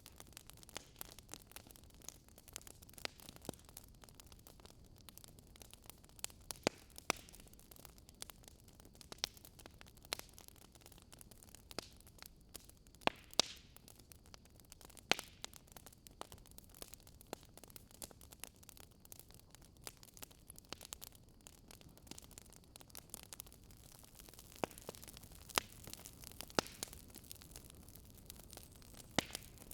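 Wood fire crackling in a fireplace: irregular sharp pops and snaps, about one every second or two, over a soft steady hiss.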